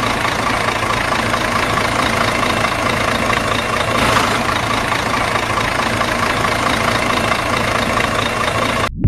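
A small motor running steadily, starting and stopping abruptly.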